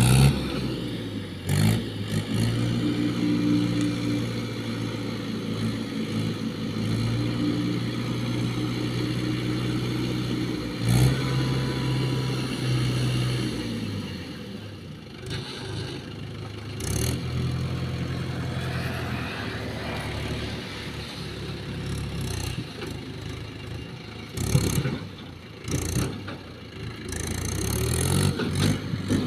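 Diesel engine of a JCB 3DX backhoe loader running and revving up and down as it works, with metal clanks and scrapes now and then.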